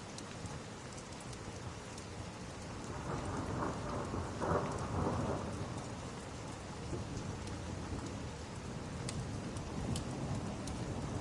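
Steady rain with a rumble of thunder that swells about three seconds in and fades by about six seconds. A few sharp crackles from the fireplace come near the end.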